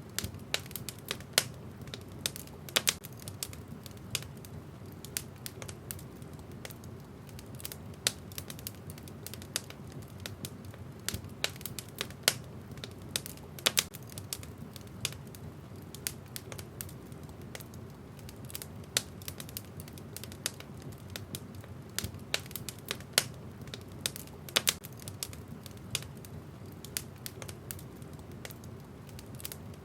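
Wood fire in a fireplace crackling: irregular sharp pops and snaps, a few of them loud, over a low steady rush of the flames.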